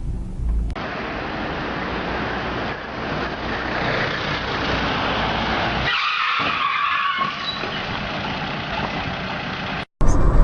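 Steady road and engine noise of a car driving. About six seconds in there is a brief, harsher noise while the low rumble drops away, likely tyres skidding.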